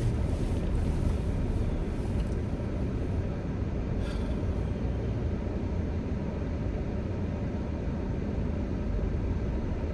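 Car engine and road noise heard inside the cabin as a steady low rumble. The car is shaking with a vibration that persists even with a new engine, coils and plugs, and the owner thinks it seems like a bad ignition coil.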